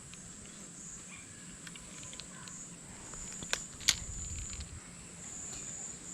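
A steady, high-pitched drone of insects calling, with a couple of sharp clicks a little past the middle.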